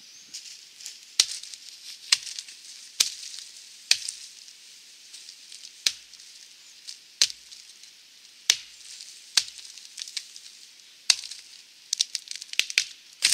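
Wetterlings Wildlife hatchet chopping into the base of a small dead tree: sharp single chops roughly one a second with short pauses, ending in a quicker run of lighter blows.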